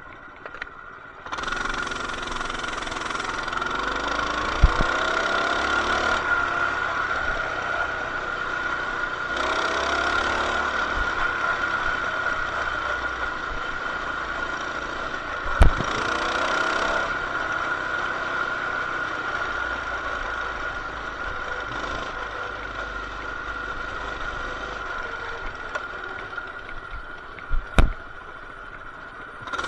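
Coleman BT200X mini bike's single-cylinder engine running while being ridden, its pitch rising in three accelerations, with wind rushing over the microphone during them. A few sharp knocks stand out, one near the middle and two near the end.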